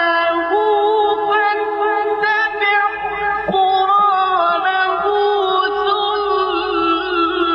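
Male Quran reciter in the melodic mujawwad style, drawing out long ornamented notes on the vowels of the verse. The notes are held for seconds at a time and bend slowly up and down.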